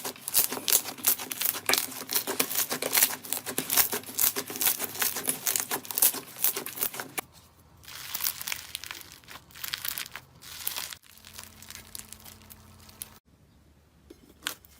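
Dense crackling and crinkling of a crunchy material being crushed for about seven seconds, then sparser, softer crackles that die away to near quiet after about thirteen seconds, with one sharp click near the end.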